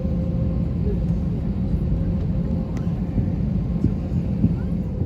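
Airliner cabin noise: a steady low rumble with a constant hum running through it, and a few faint ticks.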